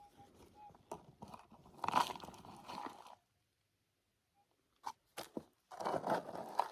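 A digging tool cutting and scraping out clay ground: two stretches of crunching scrapes, about two seconds in and near the end, with a couple of sharp clicks between.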